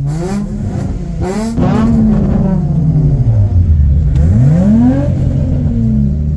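Car engine revved hard again and again, its pitch climbing and falling in about three long sweeps, with two short hissing bursts in the first second and a half.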